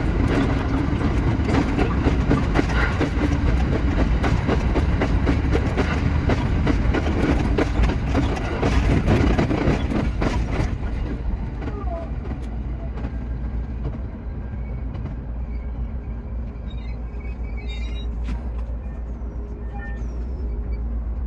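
Shinano Railway SR1 series train running on the line, with a dense rumble and rapid clicks from the wheels over the track for about the first ten seconds. After that it turns quieter and smoother, with a few faint whining tones.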